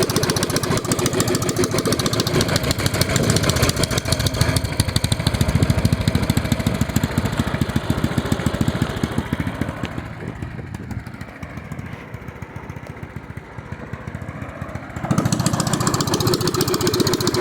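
Predator 212 single-cylinder four-stroke engine running through a pit bike exhaust pipe at raised revs. It drops to a quieter, lower idle about ten seconds in, then revs back up sharply about five seconds later.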